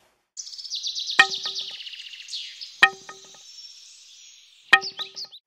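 Sound effect of birds chirping and trilling in rapid high calls, strongest in the first two seconds. Three sharp, short ringing knocks are spaced about one and a half to two seconds apart.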